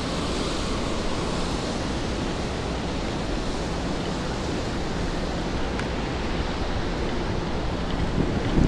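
Steady rainfall on wet city pavement, an even hiss with a low rumble underneath.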